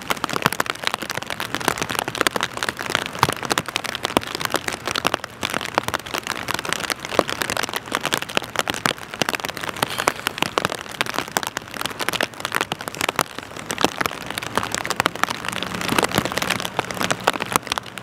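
Rain pattering steadily, a dense crackle of drops, over the faint steady low hum of idling boat engines; a second low hum joins about fifteen seconds in.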